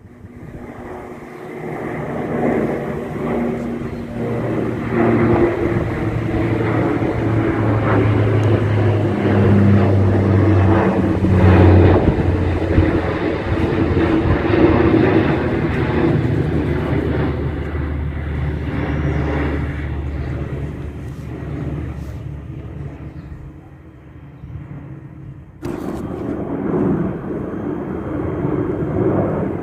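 De Havilland Canada Dash 8 Q400 turboprop climbing out overhead on takeoff: the propeller and engine drone builds, peaks about twelve seconds in, then fades, its propeller tones falling in pitch as it passes. Near the end the sound cuts abruptly to another aircraft's engine noise.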